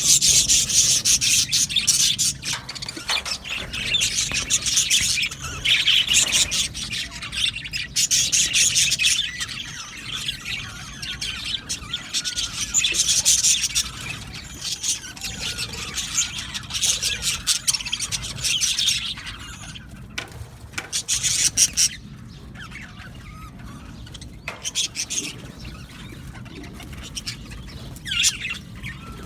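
A flock of budgerigars chattering and chirping in an aviary, in bouts of dense warbling that ease off for a few seconds near the end before picking up again.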